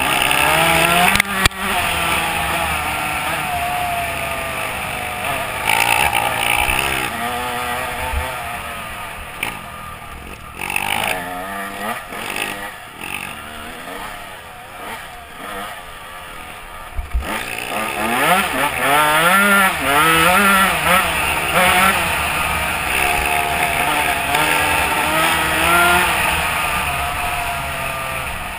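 Dirt bike engine revving, its pitch climbing and dropping over and over as the throttle is worked. It grows fainter for several seconds in the middle and comes back loud after about seventeen seconds.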